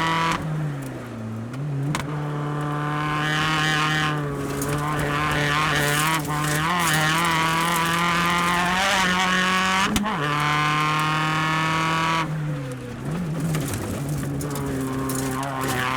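Mini Countryman ALL4 rallycross Supercar's engine and exhaust heard onboard, running hard at high revs. The pitch drops briefly as the throttle is lifted about a second in and again near the end, then climbs back, with a brief sharp crack about ten seconds in.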